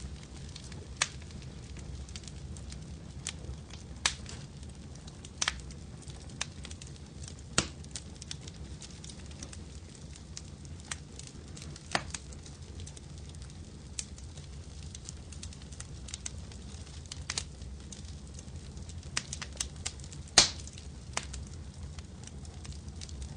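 Wood fire crackling in a fireplace: a steady low rumble with sharp, irregular pops and snaps every second or two. The loudest crack comes about twenty seconds in.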